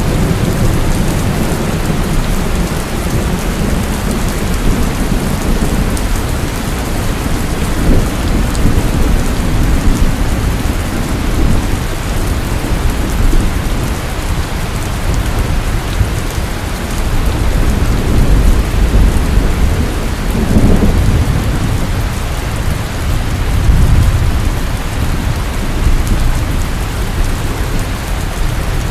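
Heavy rain falling steadily on a porch, with rolling thunder rumbling underneath that swells and fades several times.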